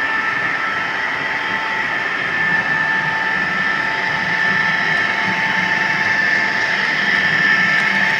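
HO scale model train running on the layout: a steady mechanical running sound with a thin, even whine, growing slightly louder near the end.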